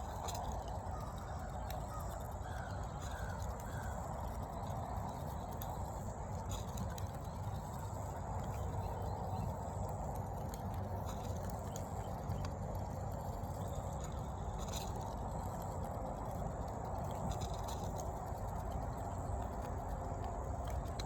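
Steady outdoor background noise with a few faint bird calls, including a quick run of three short rising notes a few seconds in.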